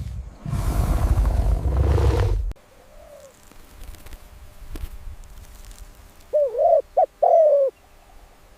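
A bird calling near the end: three short, low, arched notes in quick succession. Before that, near the start, comes about two seconds of loud rough noise.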